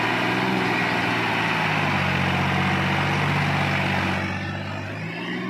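John Deere 5310 tractor's three-cylinder diesel engine running steadily under the load of a full sugarcane trolley, easing off a little about four seconds in.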